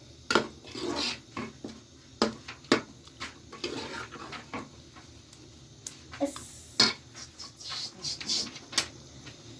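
Scattered knocks and clinks of hard objects being handled, with softer scraping and rustling between; sharp strikes come about half a second in, twice between two and three seconds in, and near seven and nine seconds in.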